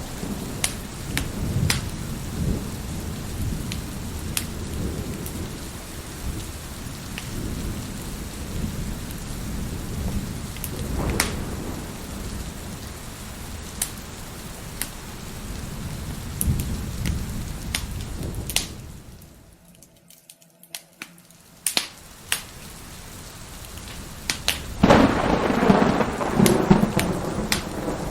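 Steady rain with rolling thunder and the sharp pops of a crackling wood fire. About two-thirds of the way through the sound drops almost to nothing for a couple of seconds, then a louder thunder rumble swells near the end.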